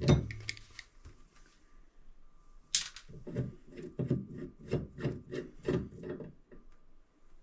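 A sharp click, then a run of short rubbing strokes, about three a second, as the old shower valve cartridge is worked by hand.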